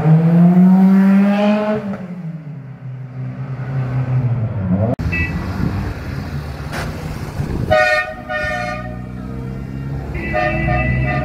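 A Ferrari V8 engine revs up as the car drives past, its pitch rising, then eases off. After a cut, a vintage car's horn toots: a brief toot, two short honks about two-thirds through, and another near the end, over low engine running.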